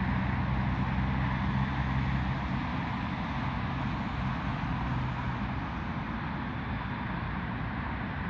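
Jet airliner engines running: a steady rushing roar with a low hum underneath that fades out about halfway through.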